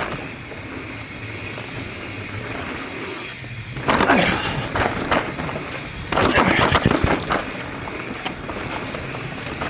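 Mountain bike riding down a dirt singletrack trail: tyres rolling over dirt with the bike rattling, and two rougher stretches of loud clattering over bumps, about four and six seconds in.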